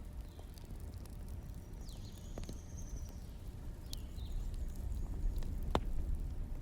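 Wood fire burning: a steady low rumble with scattered sharp crackles and pops, the loudest near the end. A few faint, short, high chirps sound in the middle.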